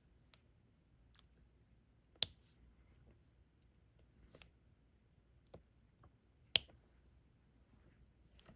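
Diamond painting stylus picking up and pressing drills onto the canvas: scattered light clicks and taps, two sharper ones about two and six and a half seconds in.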